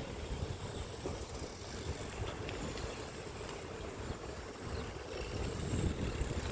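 Riding noise while cycling: wind buffeting the microphone over the steady hiss of bicycle tyres on the road.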